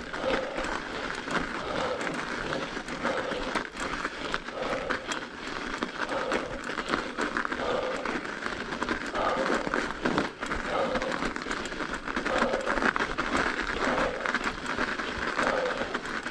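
A cyclist's heavy breathing while climbing a steep hill on a mountain bike, puffing about once a second. Under it, the bike's tyres crunch and crackle on packed snow.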